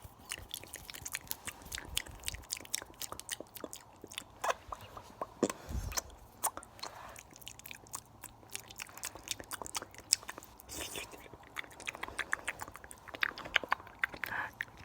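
Fast ASMR mouth sounds recorded very close to the microphone: rapid, irregular wet clicks and smacks, mixed with hand sounds such as brief rubbing.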